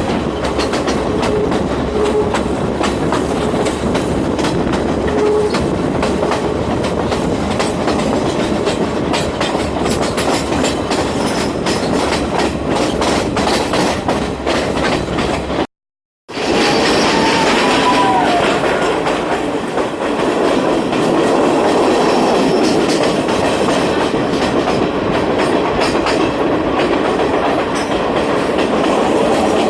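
Passenger train running along the track: a steady rolling rumble with the clickety-clack of wheels over rail joints. The sound cuts out completely for about half a second around the middle, then resumes.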